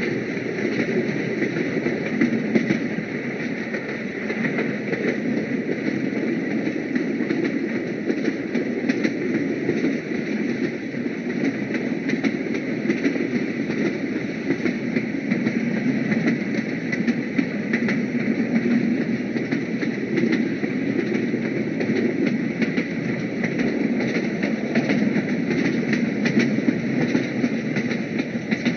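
Train running: a steady rumble with many short clicks throughout.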